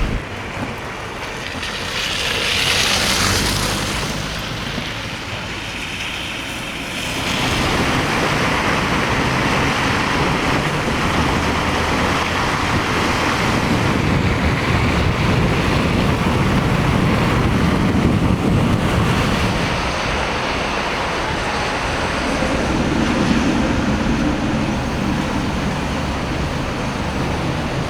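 Street noise of cars driving on wet, slushy roads, with tyres hissing through the slush and water. There is wind on the microphone. A louder hiss swells a couple of seconds in, and the noise grows fuller from about seven seconds on.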